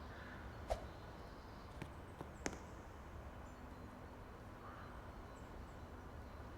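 A few sharp taps over faint, steady outdoor background noise.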